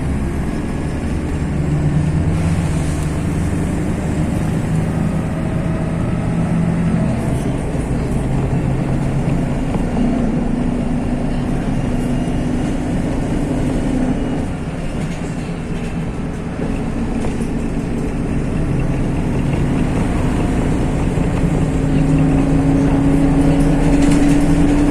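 MAZ-103 city bus under way, heard from inside: its diesel engine and drivetrain run steadily, the engine note shifting pitch with speed and rising near the end as the bus accelerates.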